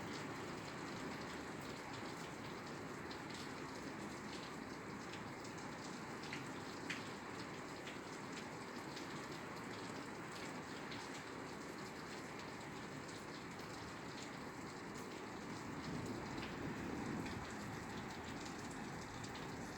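Steady rain falling on a roof, an even hiss with scattered individual drops ticking, one sharper drop about seven seconds in.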